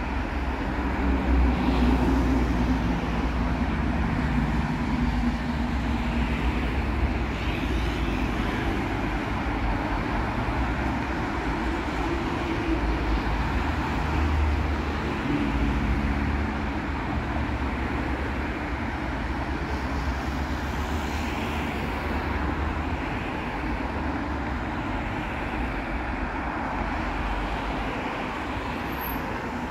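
Road traffic: cars driving past, a steady mix of engine rumble and tyre noise that swells and fades as vehicles go by.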